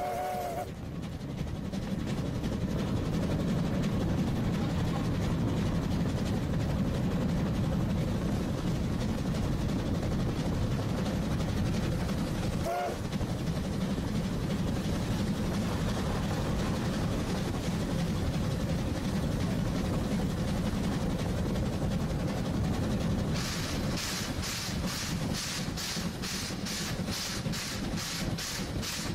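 Oigawa Railway train running along the line with a steady low rumble. A brief tone sounds about halfway through, and near the end an even ticking of about two or three clicks a second joins in.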